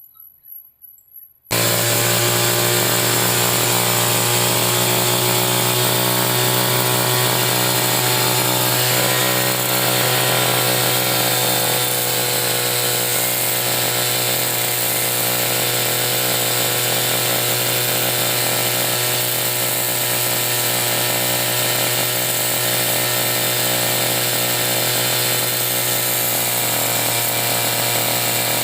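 Electric angle grinder switching on about a second and a half in and running steadily and loudly, used to grind a dull brush-cutter blade sharp.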